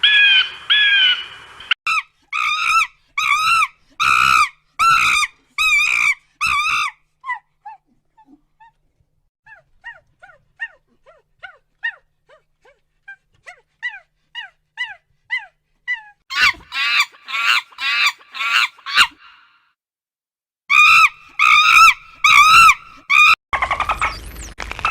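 Repeated loud animal calls, short and pitched, each rising then falling, coming about two a second. A stretch of quieter, shorter falling chirps sits in the middle, then the loud calls resume in two runs.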